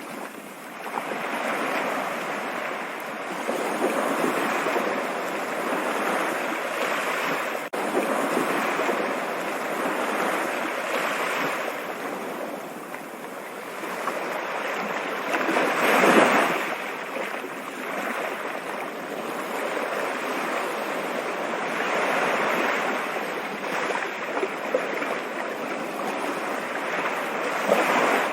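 Stream water rushing steadily, swelling and easing every few seconds, with one louder surge a little past halfway.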